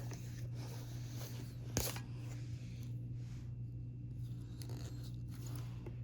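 Hands handling K-pop album packaging: paper and plastic scraping and rustling, with one sharp click a little under two seconds in, over a steady low hum.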